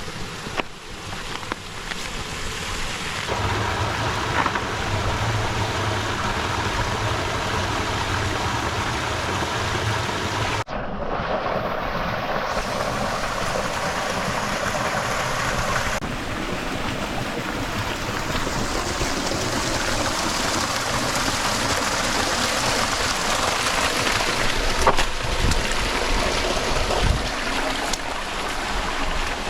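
Rushing stream water, a steady, loud hiss that changes character abruptly a few times.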